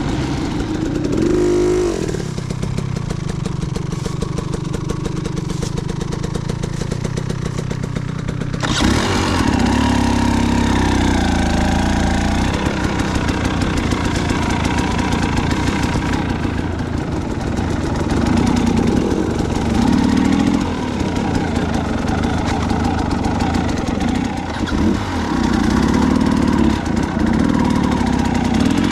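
Dirt bike engine running as it is ridden along a trail, revved up and down; about a third of the way in the sound abruptly gets fuller and louder, then rises in pitch with the throttle every few seconds.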